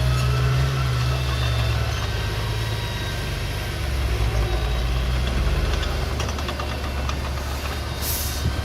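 Diesel engine of a small earthmoving machine running steadily at low speed, with some rattling clicks partway through and a short hiss near the end.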